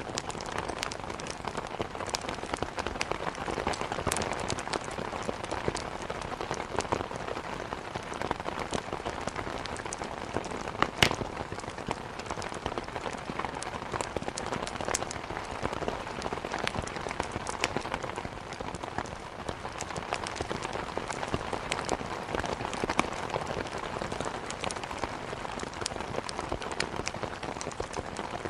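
Steady heavy rain, dotted with scattered sharp crackles and pops from burning wood logs in a fireplace. One louder pop comes about eleven seconds in.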